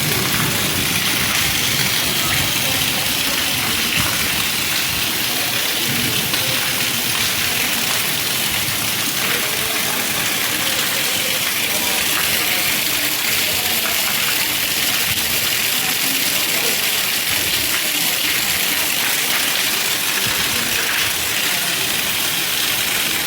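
Heavy monsoon rain pouring down in a steady, loud rush.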